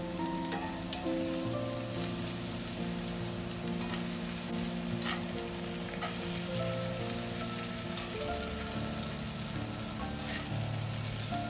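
Sliced mushrooms sizzling in a hot cast iron skillet as they are stirred with tongs, with scattered clicks of the tongs against the pan. Soft background music plays underneath.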